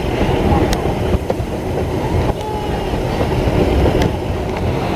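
Narrow-gauge excursion train rolling along the track: a steady, loud rumble of wheels and cars, with a couple of sharp clicks over rail joints.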